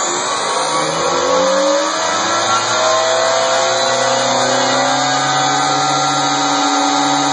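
Radio-controlled monster trucks running, their motors whining with a pitch that rises gradually over the first few seconds and then holds steady.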